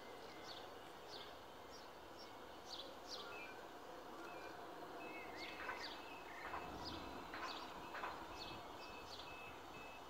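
Small bird calling over quiet outdoor background: short high chirps sliding downward, a few each second, with a few louder calls in the second half.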